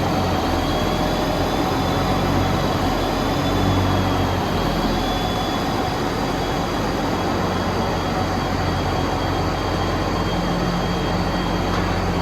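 A tractor's engine running steadily and loudly, with a thin high whine over its low drone.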